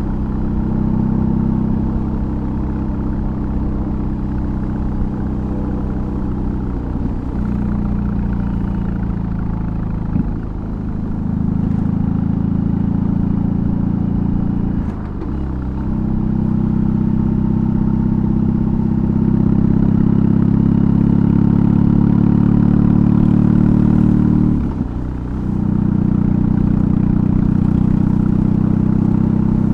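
BMW R18's big air/oil-cooled boxer twin through a custom exhaust, riding under steady throttle. The engine note breaks and dips briefly four times as gears change.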